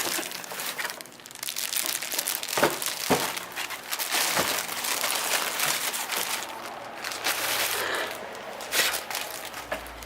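Packaging crinkling and rustling as a new oil pump is unwrapped by hand, with a few sharp clicks about a third of the way in.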